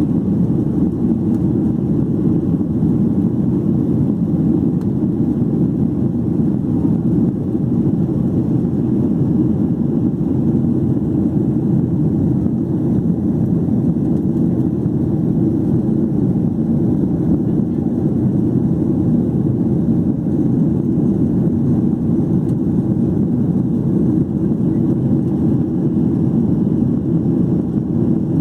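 Steady low drone inside the cabin of a Boeing 737-800: its CFM56-7B turbofan engines and the rushing air around the fuselage, heard from a window seat.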